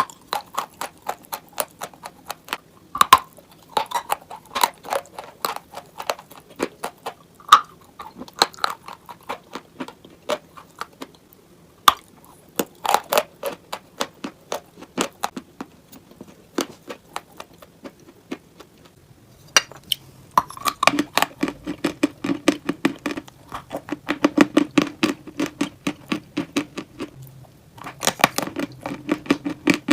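Close-miked biting and chewing of crunchy clay chalk: rapid crisp cracks and crackles as the pieces break and crumble. The bites thin out to sparse clicks for a while in the middle, then come back denser and fuller about two-thirds of the way through.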